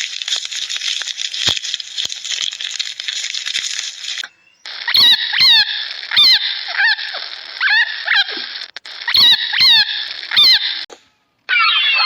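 High-pitched animal calls: a dense chorus of high calls for about four seconds, then, after a brief break, a series of short squeaky calls, each falling in pitch, about one or two a second.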